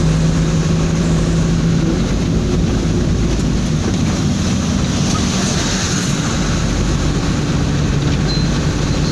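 A cargo truck running steadily at road speed, heard from inside the cab: an engine drone under a constant rush of tyre and road noise.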